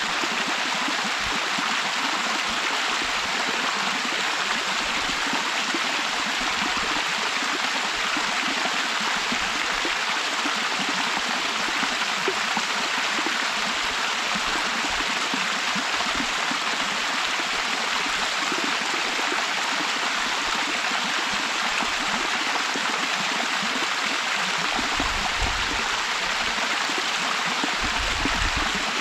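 Waterfall pouring steadily into a mountain stream: an even, unbroken rush of falling and churning water, with a few brief low rumbles, the strongest near the end.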